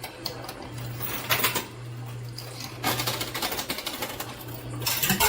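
Quarters clattering and clinking in a coin pusher machine as the fallen tower of coins is shoved over the ledge, in bursts about a second in, from about three seconds in, and again near the end. A steady low machine hum runs underneath.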